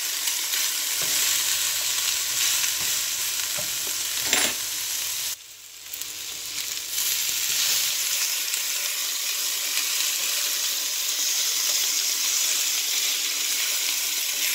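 Ground beef, bacon, peppers, onion and tomato sizzling in a nonstick skillet while a silicone spatula stirs them. There is a short knock about four seconds in, and the sizzle dips briefly a second later before coming back.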